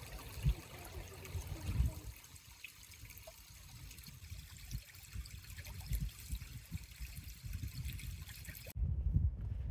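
A small forest creek trickling, a steady even wash of running water. About nine seconds in it cuts off abruptly to low rumbling and thuds.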